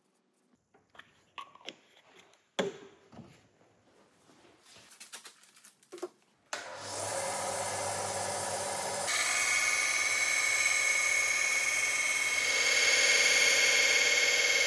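Scattered knocks and clicks from handling tools and the workpiece, then a power tool in the knife-making workshop starts about halfway through and runs steadily, getting louder twice.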